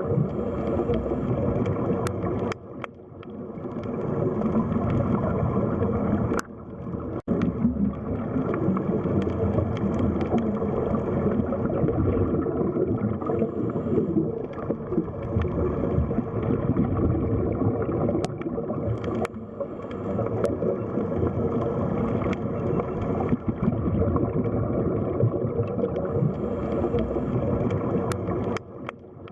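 Underwater sea ambience: a dense, muffled wash of moving water with gurgling and a faint steady hum. It dips briefly a few times.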